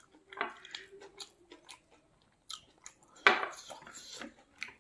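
Close-up mouth sounds of a man eating rice with his fingers: chewing and lip smacks with short clicks, and a louder burst a little past three seconds in.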